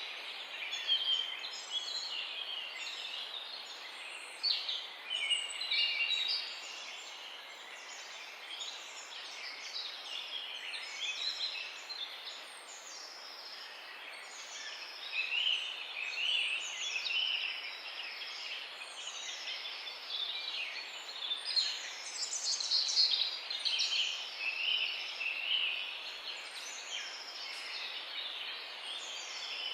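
Several songbirds singing at once, overlapping chirps and repeated high whistled phrases, over a steady background hiss.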